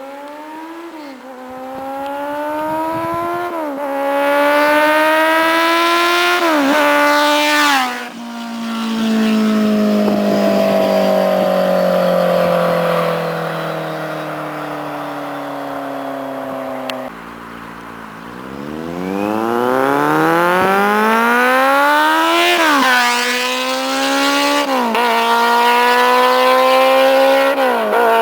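Kawasaki Z750's inline-four engine through a LeoVince SBK EVO II exhaust, accelerating hard through the gears, its pitch climbing and dropping back at each upshift. Then the note falls slowly for about nine seconds as the bike slows, and it accelerates through the gears again from about two-thirds of the way in.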